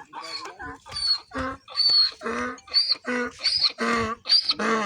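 Donkey braying: a rapid, repeated run of hee-haw calls, a thin high note alternating with a lower honk.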